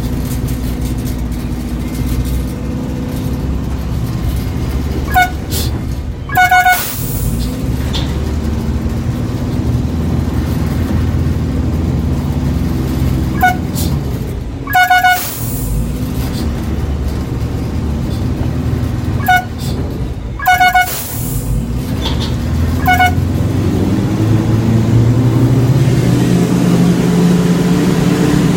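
Heavy vehicle engine running steadily, getting louder near the end, with short high tones sounding over it: a single toot followed about a second later by a double toot, three times, and one more toot near the end.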